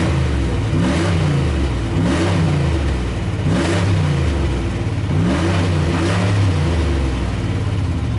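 2003 Dodge Ram 2500's engine being revved, the revs rising and falling back about five times. The engine runs smoothly; the truck needs exhaust work.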